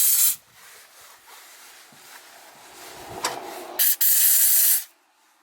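Loud spraying hiss in two bursts, a short one at the start and one of about a second near the end, with quieter rubbing noise between.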